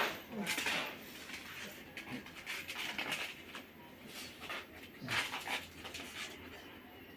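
Dog making small sounds: short snuffling noises every second or so, with a brief low whine near the start.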